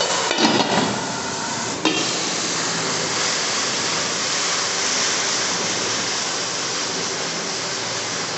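Onions, garlic, ginger and ground masala sizzling steadily in hot ghee just after a little water has been added, while a wooden spoon stirs them in an aluminium karahi. There is a sharp knock against the pan about two seconds in.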